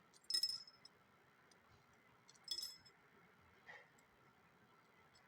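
Coins being dropped one by one into a toy's coin slot, clinking: two clear clinks about two seconds apart and a fainter one about a second later.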